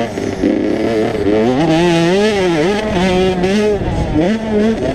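Two-stroke 85cc motocross bikes running hard, the engine pitch repeatedly rising and falling as the throttle is worked.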